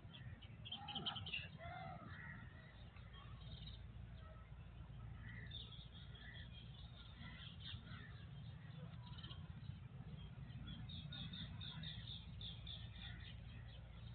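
Faint bird chirping in the background, with a cluster of chirps about a second in and a quick run of short chirps near the end, over a low steady hum.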